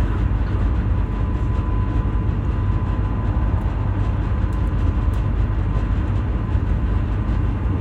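PKP Intercity passenger train running at speed, heard from inside the carriage: a steady, heavy rumble with a faint steady high whine over it.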